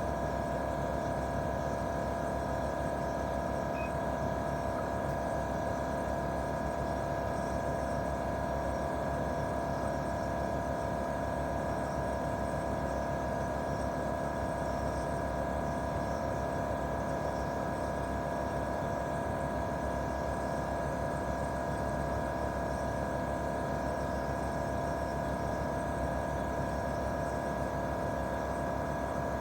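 Daikin R28RMV mini-split outdoor unit running steadily in heating mode, its twin-cylinder swing compressor and fan giving an even hum with a few constant high tones over it and no change in speed.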